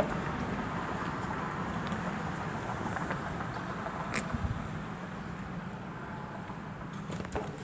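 Steady outdoor background rush, slowly fading, with a couple of light clicks.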